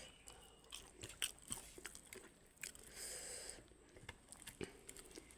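A person chewing and biting food, with faint scattered clicks and crunches.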